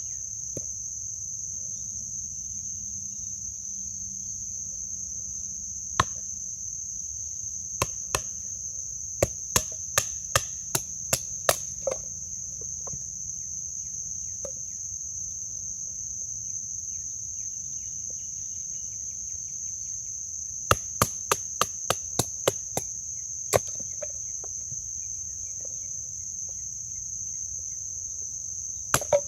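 Sharp knocks of a wooden baton striking the spine of a thin bird and trout knife, batoning it through knotty wood: a few single strikes and two runs of quick blows, about two to three a second. Insects chirr steadily and high-pitched underneath.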